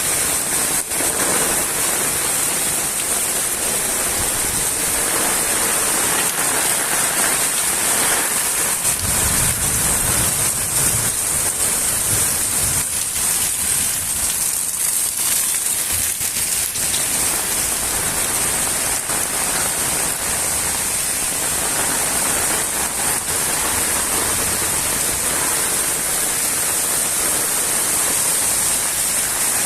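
Steady, fairly heavy rain falling on surfaces, an even hiss throughout, with a brief low rumble about nine seconds in.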